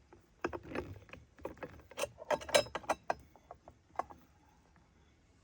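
Cookware and metal utensils being handled: a run of clicks, clinks and rattles, busiest about two seconds in and dying away after about four seconds.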